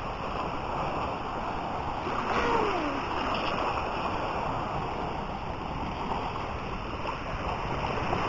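Sea waves washing onto a beach: a steady rush of surf, with faint distant voices, one falling call about two and a half seconds in.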